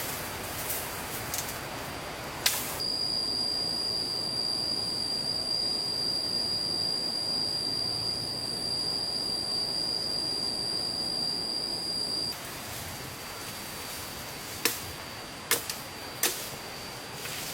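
Steady rush of flowing stream water with a few sharp knocks, and for about ten seconds in the middle a steady high-pitched tone over it.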